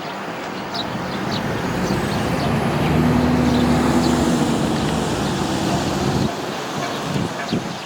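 A motor vehicle going by on the road: its noise builds over the first few seconds and its engine hum stops sharply a little after six seconds in. A few short chirps of Eurasian tree sparrows sound over it.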